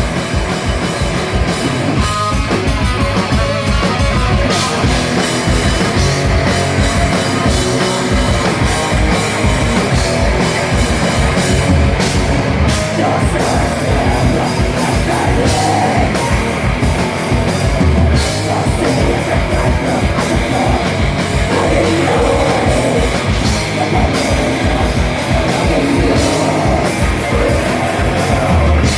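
A rock band playing live and loud: distorted electric guitars, bass and a drum kit, with singing coming in over the band about midway.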